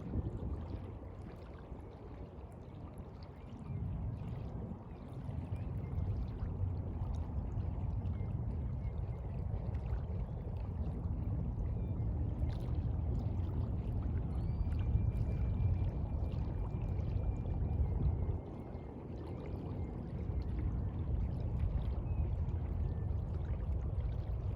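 Sea water washing and surging, heard mostly as a low rumble that swells a few seconds in and drops back briefly about three-quarters of the way through.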